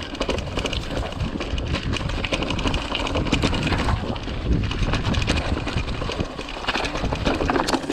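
Mountain bike rolling over rough trail: tyre noise, rumble and frequent rattling clicks, with wind on the microphone.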